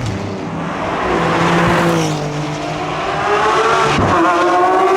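Lamborghini supercar engine with its pitch sliding down over the first few seconds, then rising again as it revs up about four seconds in.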